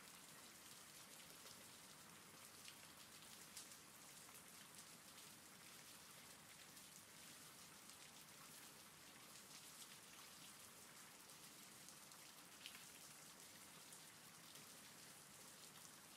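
Faint, steady rain: an even hiss of falling rain with a few sharper drop ticks scattered through it.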